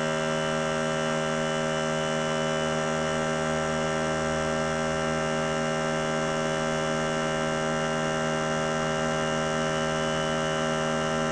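Small portable air compressor running with a steady, even hum, pumping up tank pressure toward its cut-off.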